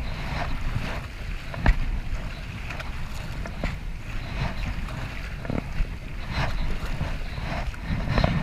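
Kayak paddling on a river: irregular paddle splashes and water sounds over a low wind rumble on the microphone, with one sharp knock a little under two seconds in.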